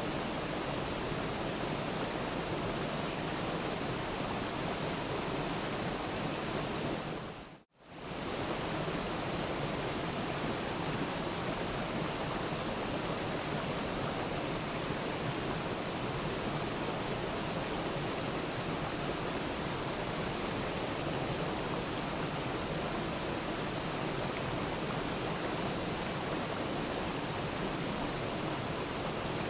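Waterfall rushing: a steady, even hiss of falling water. About eight seconds in it fades briefly to silence and comes straight back.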